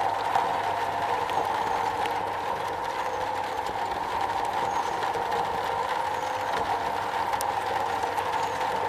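Steady rain drumming on a metal roof, an even hiss with a hollow ring and occasional sharper drop ticks.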